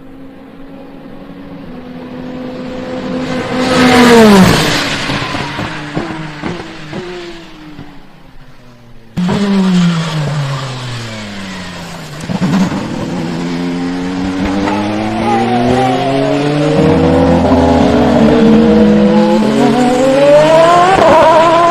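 Peugeot 9X8 hypercar's twin-turbo V6 at racing speed: the car approaches and passes with its pitch dropping about four seconds in. After an abrupt cut, the engine pitch falls as it slows, then climbs through several gear changes as it accelerates.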